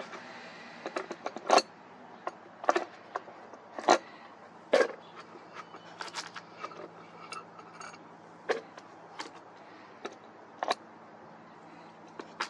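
Irregular sharp clicks and taps of small hard objects being handled, a dozen or so spread unevenly, over a faint steady hum.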